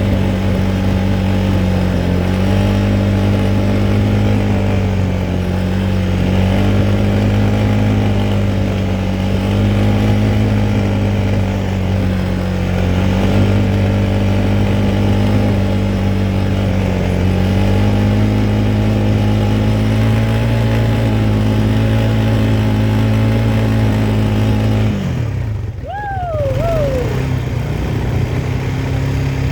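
Quad bike engine running under way, its revs rising and falling a little, then dropping off sharply about 25 seconds in. Just after, a short squeak falls in pitch.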